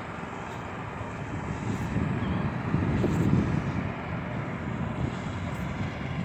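Low outdoor rumble, like wind or distant engine noise, that swells for a couple of seconds midway and then eases. Faint, brief bird chirps sound above it.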